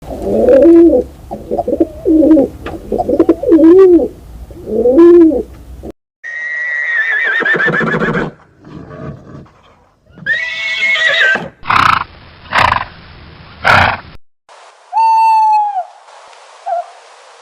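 A run of different animal calls, cut abruptly one after another: repeated low arching calls for the first few seconds, then a long call falling in pitch, then more calls with a few sharp clicks, and short falling calls near the end.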